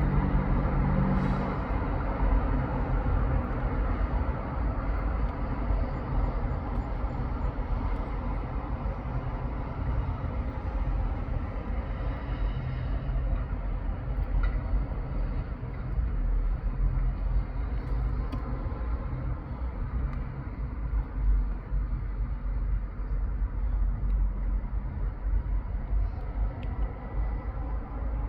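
Road traffic passing: a steady rumble of vehicle engines and tyres on the road. A deep engine note sounds briefly at the start.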